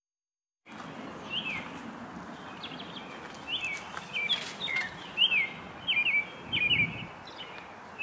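Birds chirping, a dozen or so short high notes that each slide downward, over a steady outdoor background hiss. It starts about a second in.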